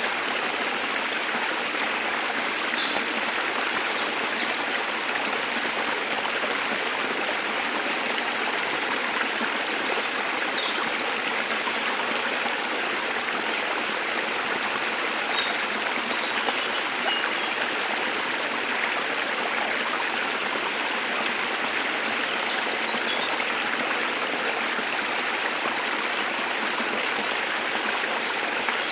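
Waterfall running steadily, a constant rush of falling water. Faint short bird chirps come through it now and then.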